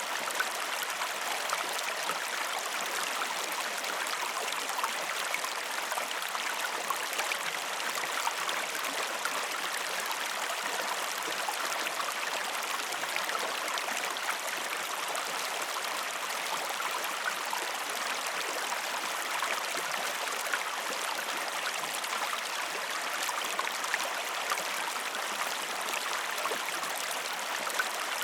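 River water running steadily, a continuous rushing babble with many small splashes and trickles.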